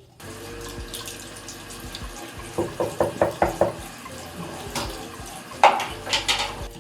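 Bathroom sink tap running steadily, with a quick run of sharp knocks against the sink in the middle and louder splashing near the end.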